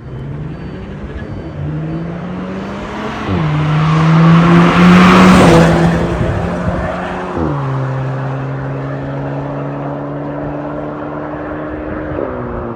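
Škoda Octavia RS Mk4.5's 2.0-litre turbocharged four-cylinder (EA888 evo4) running through an MS-R valved cat-back exhaust under acceleration. Its pitch climbs, then drops at upshifts about three and a half and seven and a half seconds in. A rush of noise swells loudest around the middle, and the pitch steps down once more near the end.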